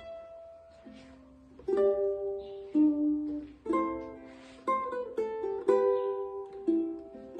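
Tenor ukulele with an HPL maple-veneer body and fluorocarbon strings, played as plucked notes and chords. A quieter passage in the first second or so gives way to louder ringing chords.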